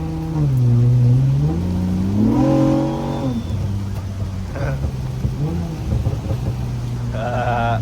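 Honda Accord V6 engine heard from inside the cabin, climbing in pitch as the car accelerates and dropping abruptly at a gear change about three seconds in, then running steadily. A voice starts briefly near the end.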